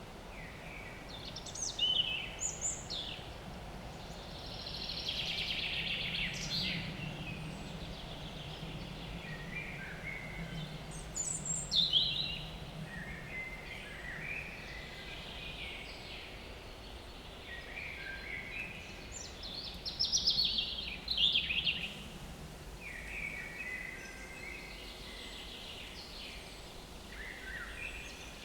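Several small woodland birds singing in overlapping phrases, with a few louder, sharp phrases about two, twelve and twenty seconds in. Under them a low steady buzz, typical of a fly hovering near the microphones, comes in about four seconds in and fades around the middle.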